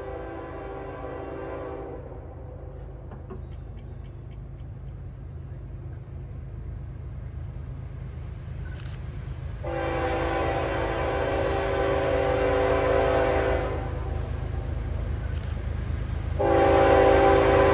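Diesel locomotive air horn sounding a chord in long blasts, three times, over the low rumble of an approaching train, growing louder toward the end.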